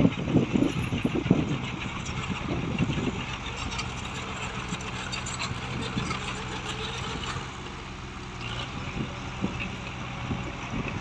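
Heavy diesel engine of construction equipment running steadily at a constant speed, with a few louder low surges in the first few seconds.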